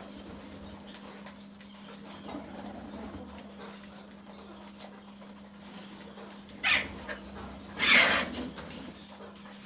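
Two loud, harsh screeches from Alexandrine parakeets: a short one about two-thirds of the way in and a longer one a second later. A steady low hum runs underneath.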